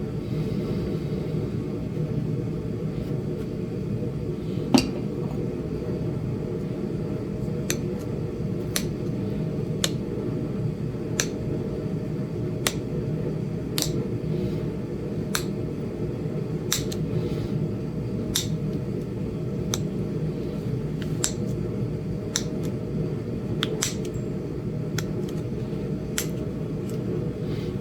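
Flint Ridge chert being knapped: sharp glassy clicks as small flakes snap off the edge of the point, roughly one every second or so, with one louder snap about five seconds in. A steady low hum runs underneath.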